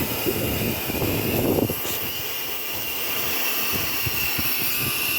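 Miniature live-steam locomotive: a steady rushing hiss with a faint high tone over it and irregular low rumbling, swelling briefly about a second and a half in.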